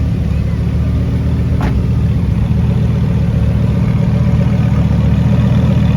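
Car engine idling with a steady deep rumble. A brief high chirp cuts across it about a second and a half in.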